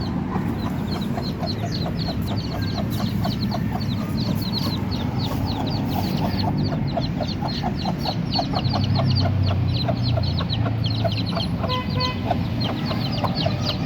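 Domestic chicks peeping continuously in a rapid run of short, high, falling notes, with a mother hen clucking low and steadily among them. A steady low rumble lies underneath.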